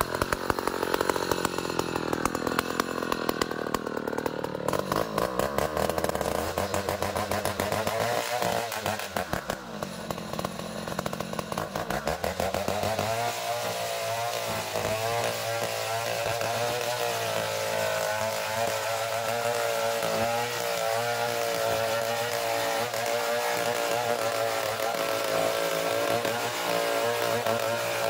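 Gergaji trio bandsaw mill running on long ulin (Borneo ironwood) logs, a loud continuous machine whine. Its pitch wavers and shifts for the first dozen seconds, then holds steady.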